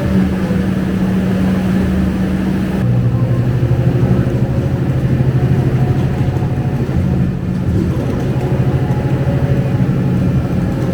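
Scania K250UB single-decker bus's five-cylinder diesel engine running while the bus is under way, heard from on board. Its note drops to a lower pitch about three seconds in and then holds steady.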